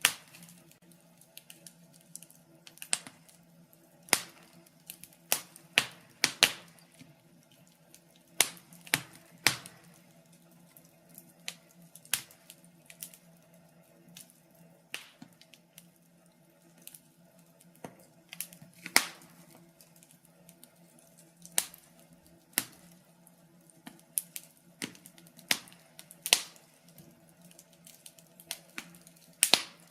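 Wood fire in a fireplace crackling, with irregular sharp pops and snaps from the burning logs, some much louder than others, over a faint steady low hum.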